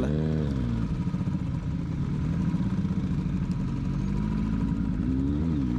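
Motorcycle engine running while riding a rough uphill track: the revs drop in the first half second, hold steady, then pick up again near the end, over a constant low rumble.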